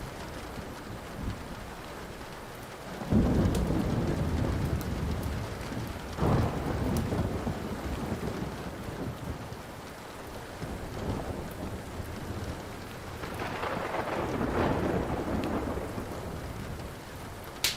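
Steady rain with thunder: a sudden clap about three seconds in that rumbles on, another surge around six seconds, and a long rolling rumble near the end. Now and then a sharp crackle or pop from a wood fire.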